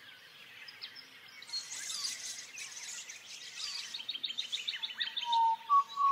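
Birds chirping and calling, with a fast trill of short falling chirps about four seconds in; a lower whistled tone starts near the end.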